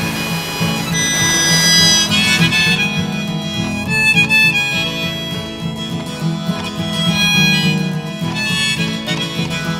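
Music: a harmonica playing held, wavering melody notes over acoustic guitar backing.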